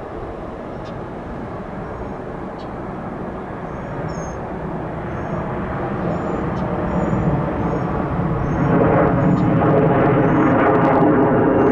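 Jet airliner engines getting steadily louder as the aircraft comes closer, with a set of steady engine tones rising out of the noise in the last few seconds.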